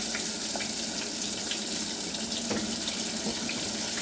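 Battered pickle slices frying in hot oil: a steady sizzle with scattered small pops.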